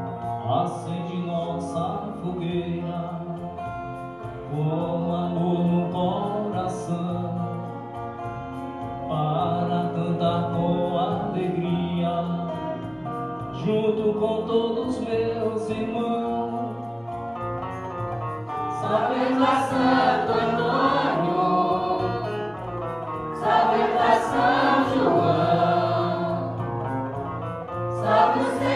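A Santo Daime hymn sung by a group of voices with guitar accompaniment, in phrases of a few seconds each. About two-thirds of the way through, the singing grows fuller and louder.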